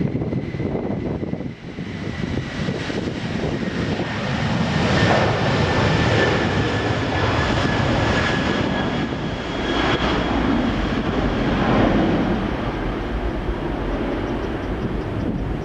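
Jet airliner engines at takeoff power: a steady roar with a high whine whose pitch slowly falls, growing louder about four seconds in.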